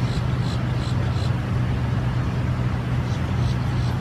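Steady low rumble of urban traffic, with short high bird chirps repeating a few times a second for about the first second and again near the end.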